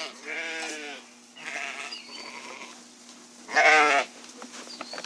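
Sheep bleating: three wavering calls, the loudest about three and a half seconds in.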